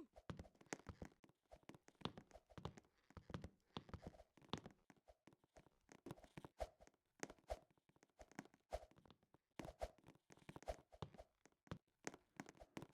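Faint, irregular clicks and taps, a few every second.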